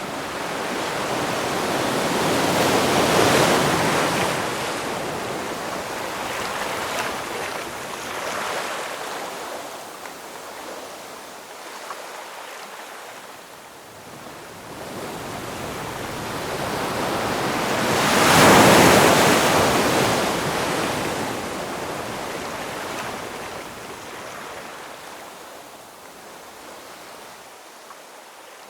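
Ocean waves breaking on a shore, a rushing surge that builds and fades away; two big waves peak, one a few seconds in and one past the middle.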